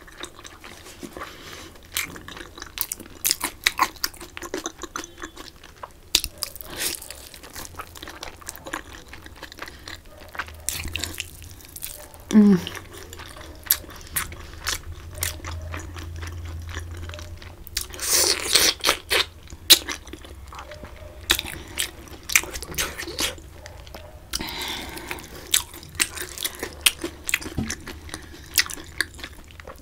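Close-miked chewing and biting of glazed braised pork belly: wet mouth clicks and lip smacks in an irregular run, with a short falling hum about twelve seconds in and a louder, noisier stretch of mouth sound around eighteen seconds.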